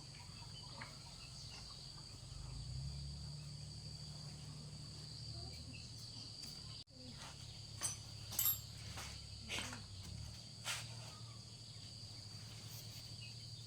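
Insects buzzing steadily at a high pitch, with a low hum underneath and a few sharp clicks or knocks partway through.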